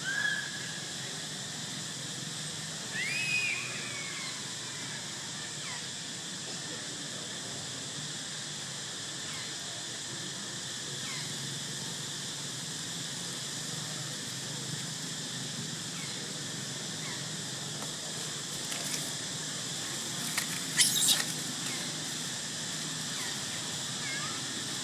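Young monkeys squealing: a short high squeak at the start, a rising-and-falling squeal about three seconds in, and a louder, sharp squeal near the end, over a steady high-pitched drone.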